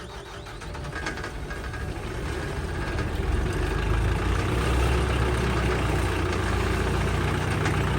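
Diesel engine of firewood equipment idling just after a cold start, warming up. It builds over the first few seconds, then runs steadily.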